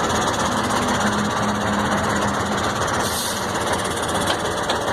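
Mercedes-Benz 1634 truck's diesel engine running steadily, heard close up, with a faint low tone in the first couple of seconds.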